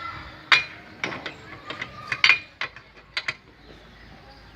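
A metal wrench working bolts as they are tightened evenly in turn: a run of irregular sharp metallic clicks and clinks. The loudest come about half a second and a little over two seconds in.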